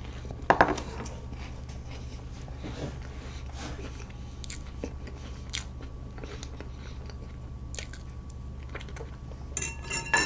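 Close-miked mouth sounds of chewing a bite of fresh cream cake with crunchy meringue cookie: soft crunches and small wet clicks over a steady low hum. One sharp click about half a second in is the loudest sound.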